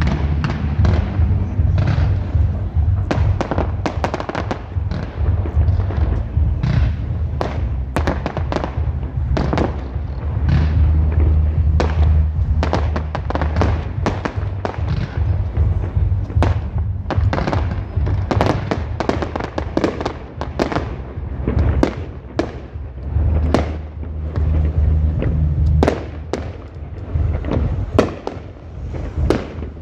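Fireworks going off in rapid, continuous volleys: many sharp bangs and crackles a second, with barely a pause, over a low rumble.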